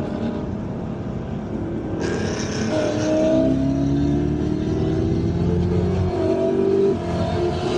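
Chevrolet Camaro ZL1's supercharged V8 accelerating hard at highway speed. Its note climbs steadily in pitch from about three seconds in, dips briefly about six seconds in, then climbs again.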